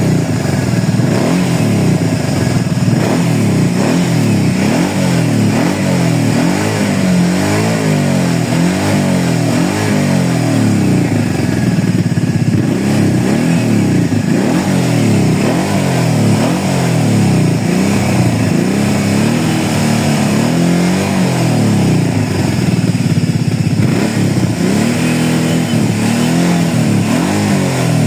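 ATV engine being revved up and down over and over, its pitch rising and falling about once a second with no pause.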